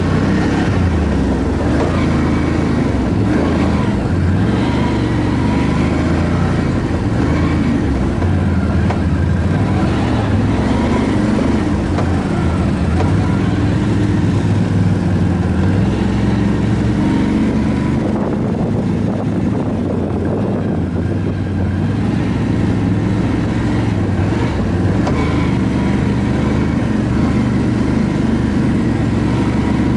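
ATV engine running while being ridden, its pitch rising and falling with the throttle, with rushing noise over it.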